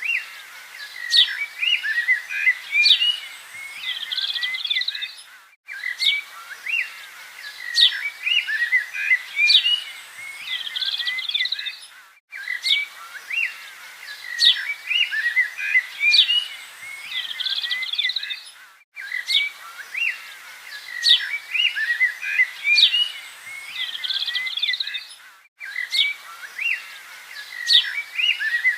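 Many small birds chirping and twittering together. It is a short recording looped over and over, repeating about every six and a half seconds with a brief silent break between repeats.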